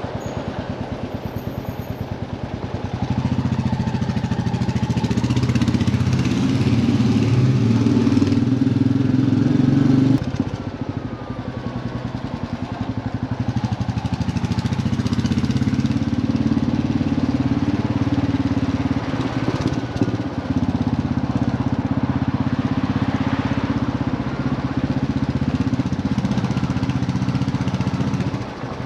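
Royal Enfield motorcycle engine running while riding, building up about three seconds in, easing off briefly around ten seconds, then pulling steadily again and dropping back near the end.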